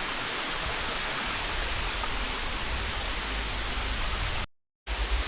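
Steady rushing hiss of a waterfall's falling water. It cuts out completely for a moment near the end, then returns with a deeper rumble underneath.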